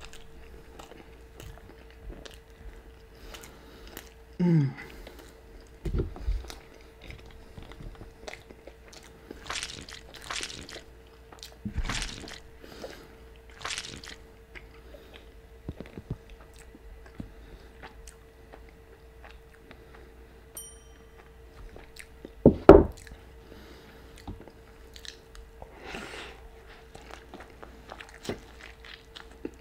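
Close-up mouth sounds of a person biting and chewing a burrito: wet chewing with small crunches and clicks. A few low thumps come through, the loudest about three quarters of the way in, over a faint steady hum.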